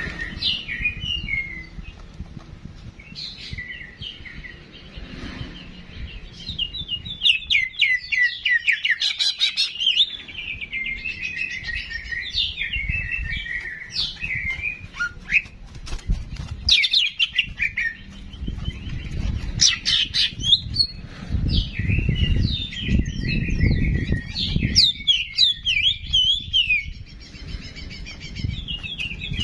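Small songbirds chirping and singing in quick, chattering trills and sweeping notes, with a steady low rumble underneath that grows louder in the second half.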